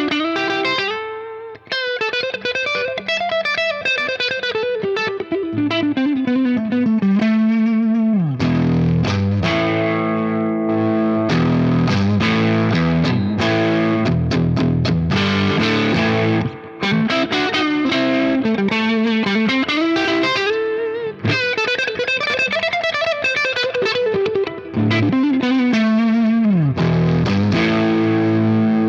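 Les Paul-style electric guitar played through a Fender Blues Junior IV tube amp with an overdriven tone, captured via a reactive load and a 4x12 Vintage 30 cabinet impulse response. Single-note lead phrases slide up and down in pitch, alternating with held chords that ring out.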